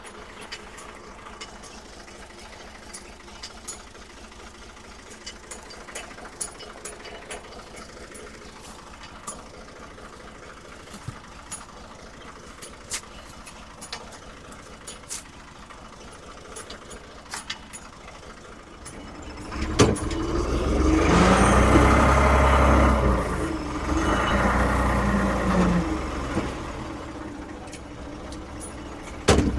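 Ford 550 backhoe's diesel engine running low with scattered light clicks. About two-thirds of the way in it revs up and works loudly for several seconds, its pitch wavering, then eases off near the end.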